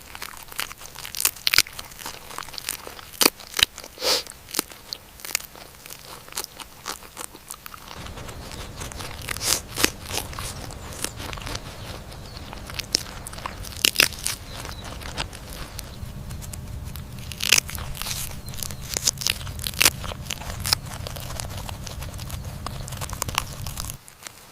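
A rabbit biting and chewing cabbage leaves: irregular crisp crunches and tearing of the leaves. A low steady hum runs beneath from about a third of the way in and stops just before the end.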